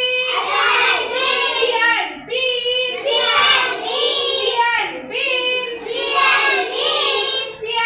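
A young child's high voice sounding out three-letter words in a drawn-out, sing-song way, in three long stretches with short breaks between them.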